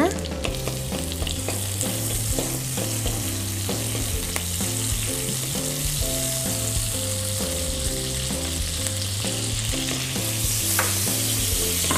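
Margarine melting and sizzling in a hot nonstick wok, pushed and scraped around the pan with a plastic spatula. The sizzle grows a little brighter near the end.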